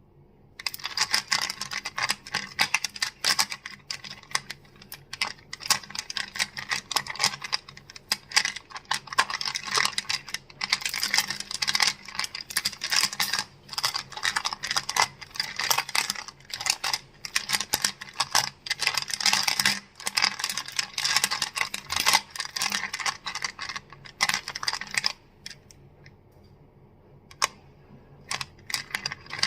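Crystals clicking and clacking against one another in fast, dense taps. The taps stop about 25 seconds in, and a few single clicks follow near the end.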